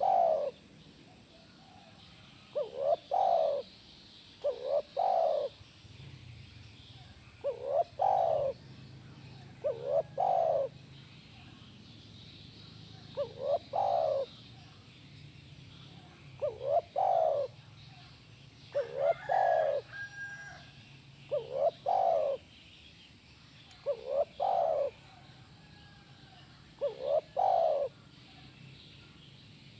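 Spotted dove (tekukur) cooing: a short phrase of two or three coo notes, repeated steadily about every two to three seconds.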